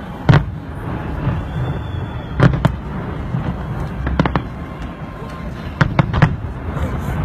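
Fireworks bursting: sharp bangs every second or two, some in quick pairs and a triple near the end, over a continuous low rumble of more distant bursts.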